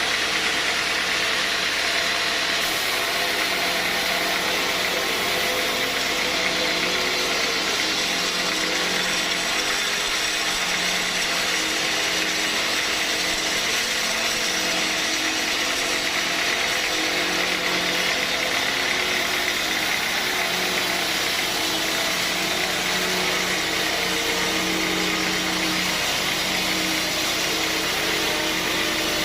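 Sawmill machinery running steadily, a machine hum with a strong high rushing noise over it.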